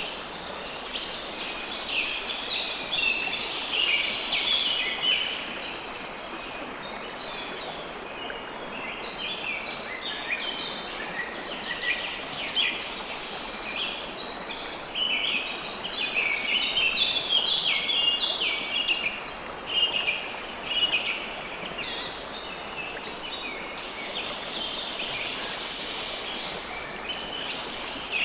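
River water flowing steadily under a dense chorus of small birds chirping, the chirps overlapping almost continuously and thinning for a few seconds early on.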